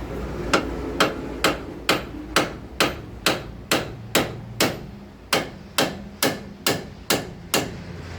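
Hand hammer striking steel suspension parts, about sixteen sharp ringing blows at a little over two a second, with a short pause about five seconds in.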